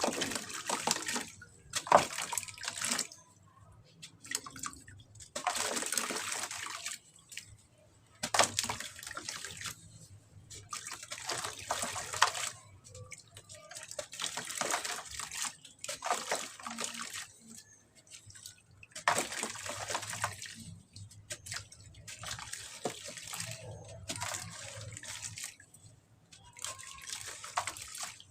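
Soft cement with white grains crumbling into water, heard as repeated short bursts of splashing and crumbling, a new one every one to three seconds, with a few sharp plops among them.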